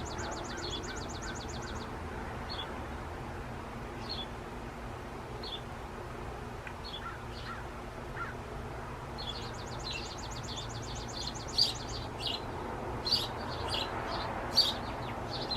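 Small birds calling: a rapid high trill at the start and again about nine seconds in, with short chirps scattered through, over a steady low outdoor hum.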